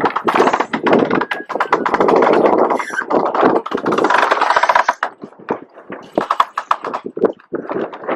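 Jib sail flapping hard in the wind during a douse, a rapid run of cracks and rustling that is heavy for about five seconds, then breaks into separate snaps.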